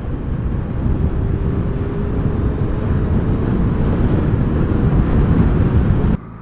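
Heavy wind noise buffeting the microphone on a moving vehicle, with a faint engine tone that rises slowly; it cuts off abruptly near the end.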